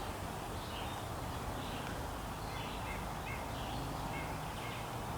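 A bird calling: a long series of faint, evenly repeated short calls, about two a second, over a steady background hiss.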